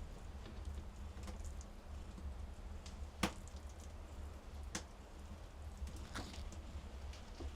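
A few light clicks and taps at irregular moments over a steady low hum, the sharpest a little after three seconds in.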